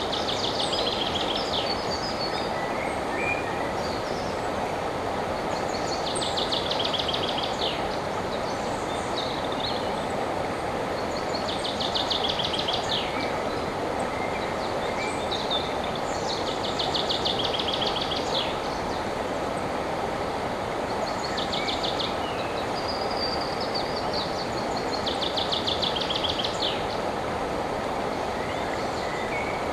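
River water flowing steadily. Over it a songbird repeats a short song ending in a fast, high trill, about every five seconds.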